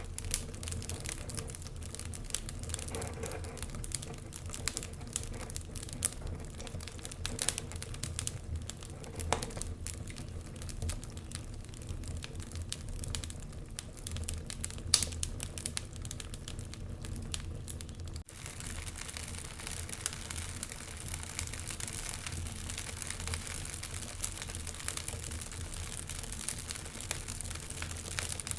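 Wood fire crackling in a fireplace: irregular sharp pops and snaps over a steady low rumble and hiss. About eighteen seconds in, the sound changes abruptly to a denser, more even crackling hiss with fewer separate pops.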